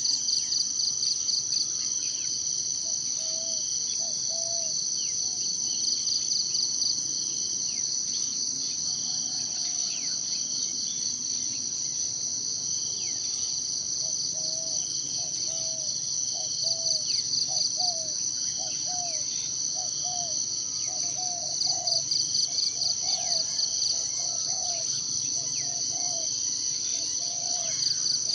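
Forest insect chorus, a steady high-pitched shrill trill that swells into fast pulsing every few seconds. Faint short bird chirps come and go, and through the second half a run of short, low, evenly repeated call notes sounds over it.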